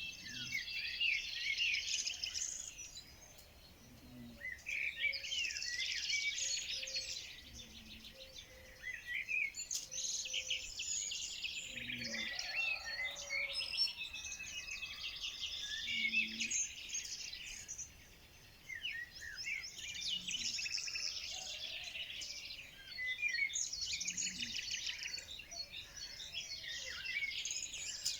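Songbirds singing and chirping, many quick high trills and chirps overlapping in bouts of a few seconds, with brief lulls between them.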